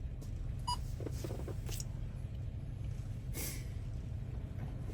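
A steady low hum with one short electronic beep near the start, then faint handling noises and a brief hiss.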